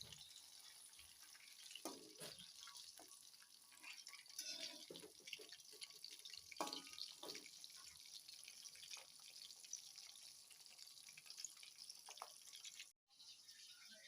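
Faint running water with drips and small splashes, a light trickle dotted with scattered little clicks. The sound drops out for a moment near the end.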